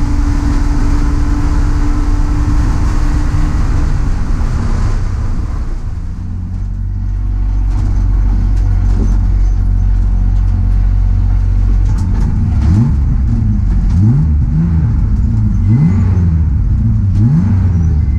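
Race car engine heard from inside the stripped cabin, pulling hard at speed. About six seconds in the revs drop away and it settles to a low drone. In the last few seconds it is revved up and down again and again.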